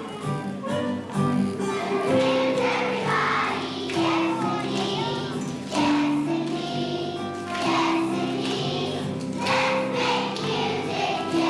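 First-grade children's choir singing a song together with instrumental accompaniment, holding notes that step up and down in pitch.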